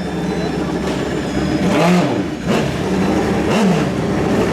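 Drag-racing motorcycle engine being revved in short blips, its pitch rising and falling twice over a steady running drone.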